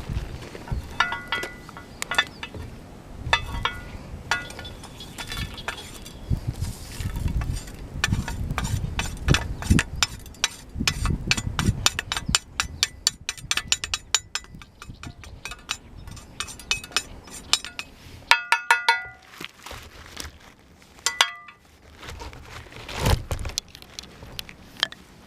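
Metal camping gear being handled: a run of clicks and clatter with several short, ringing metallic clinks.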